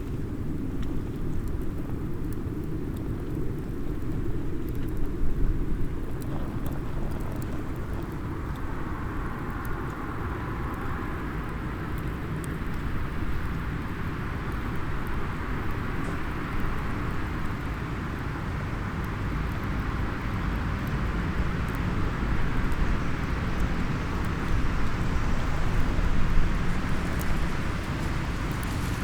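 Small wood fire crackling faintly in a SOTO mini fire stand, over a steady low rumble that is the loudest thing throughout.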